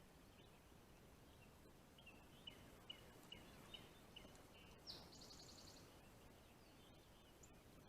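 Faint bird song: a run of short, evenly spaced chirps, about two or three a second, followed about five seconds in by a brief buzzy trill.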